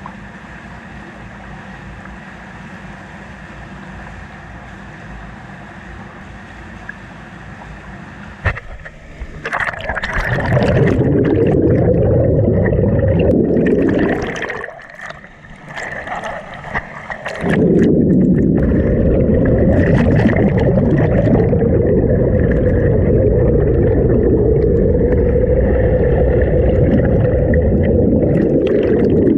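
Rushing water of a waterfall, fairly quiet at first, then loud and steady from about ten seconds in, with a short dip a few seconds later.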